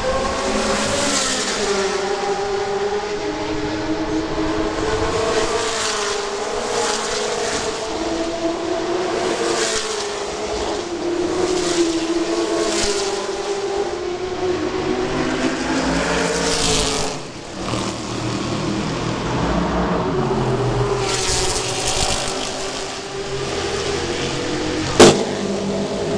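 Ford GT40's V8 engine at racing speed, its pitch climbing through the revs and dropping on lifts and gear changes, with a sharp knock near the end.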